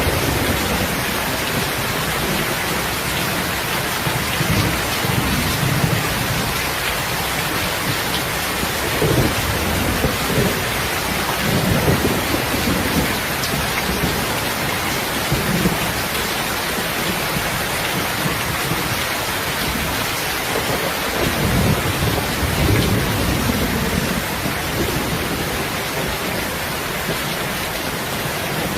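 Steady heavy rain hiss, with low rolling thunder rumbling up twice, about a third of the way in and again past the middle.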